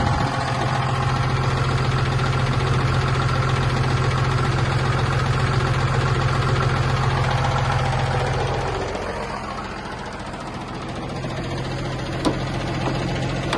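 Cummins ISB 6.7 L diesel engine of a Freightliner M2 box truck idling steadily. About nine seconds in it turns quieter and its tone changes. A single sharp click comes near the end.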